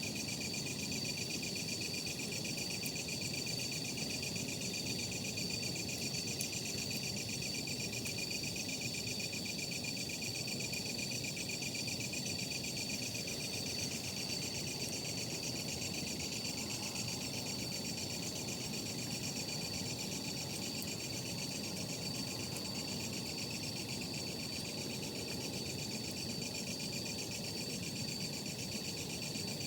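A dense, steady chorus of night insects chirping, over the soft low rustle of a campfire burning, with a few faint crackles.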